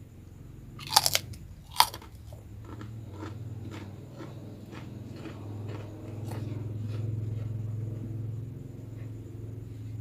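Close-miked bites into crispy rambak skin crackers: two loud crunches about a second in, then a run of smaller crunching chews.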